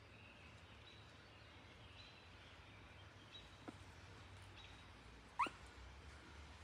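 Quiet ambience with faint, thin bird calls here and there, and one short, sharp rising chirp about five seconds in that stands out as the loudest sound.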